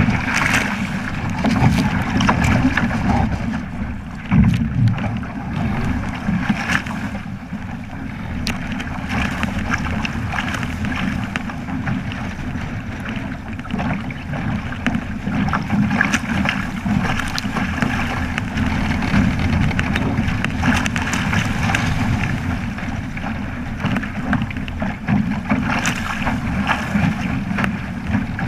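Wind buffeting the microphone over water rushing and splashing along a Flying Fifteen's hull as the boat sails, with occasional small knocks.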